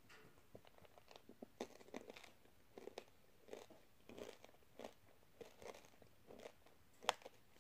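Faint, close chewing of candy-coated peanut M&M's: short irregular crunches about every half second, with one sharper crack about seven seconds in.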